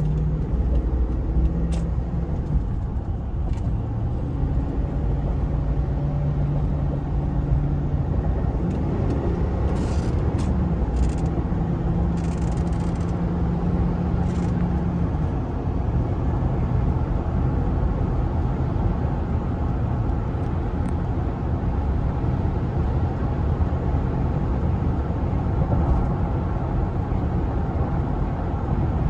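2005 Cadillac Escalade's 6.0-liter Vortec V8 running while the truck is driven, a steady drone with road and tyre noise. The engine note steps up and down a few times in the first half, then holds steady.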